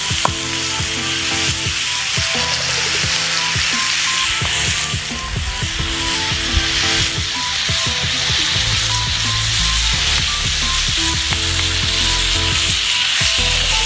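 Beef slices and thiên lý (Tonkin jasmine) flowers sizzling in hot oil on a shard of a clay water jar used as a griddle, a steady frying hiss, with background music underneath.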